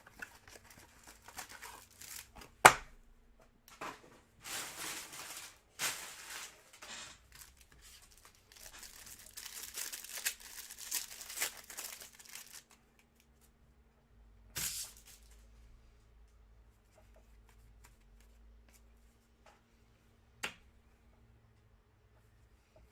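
A trading-card hanger box's packaging being torn open, with crinkling, in several tearing bursts over the first twelve seconds or so, then a shorter tear and a single click near the end.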